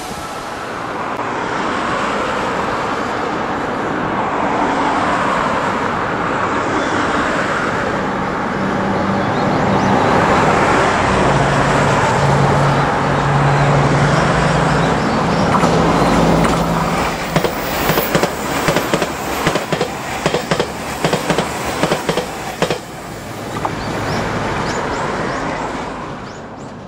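Road traffic passing close by, then a JR Shikoku 8000 series electric express train running past, its wheels clacking in a rapid, uneven run over the rail joints for several seconds in the second half.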